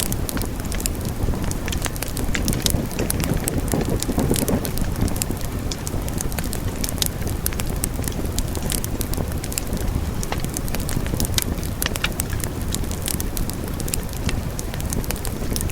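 Wood fire burning: a steady low rumble of flames with frequent sharp crackles and pops throughout.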